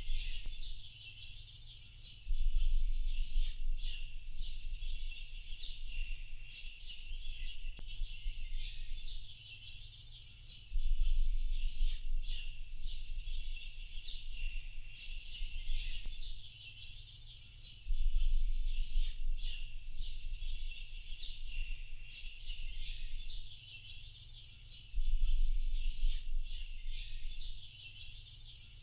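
Dense chorus of many small birds chirping without pause. A deep low rumble swells up about every seven seconds, lasting a couple of seconds each time, and is the loudest part.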